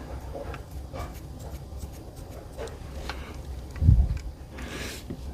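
Handling noise from air rifle parts being threaded back together: faint rubbing and small clicks, a dull thump about four seconds in, and a brief rustle near the end.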